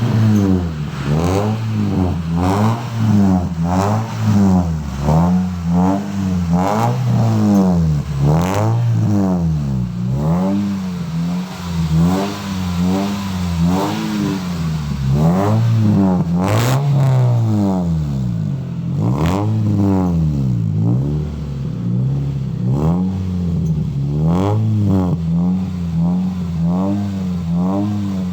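Toyota Vios four-cylinder engine revved in quick repeated throttle blips through an aftermarket 'spon baby' exhaust muffler, the pitch rising and falling over and over.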